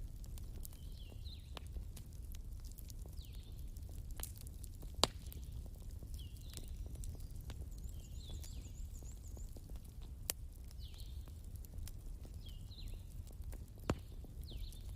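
Wood fire crackling, with a few sharp pops now and then, over a low steady rumble. Short falling chirps from a night animal come every second or two throughout, with a brief high trill about eight seconds in.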